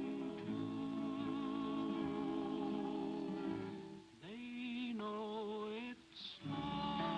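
A cowboy song sung by a vocal group in close harmony with held chords. About four seconds in it thins to a single wavering voice for a couple of seconds, then the full harmony returns.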